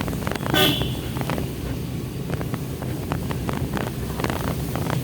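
Maruti Suzuki Eeco van driving along a highway, heard from inside the cabin: a steady low engine and road drone with frequent small rattles and knocks. A brief high-pitched sound comes about half a second in.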